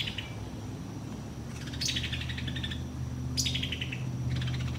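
A bird gives two short, rattling calls that slide downward, about two and three and a half seconds in, over a steady low hum.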